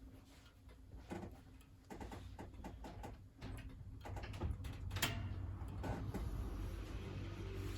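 Wood fire burning in a wood-burning stove: scattered crackles and pops over a low rumble that grows louder about two seconds in, with one sharper pop about five seconds in.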